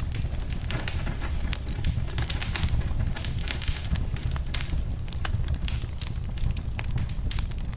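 Wood fire in a fireplace crackling, with frequent irregular sharp pops and snaps over a steady low rumble of the burning fire.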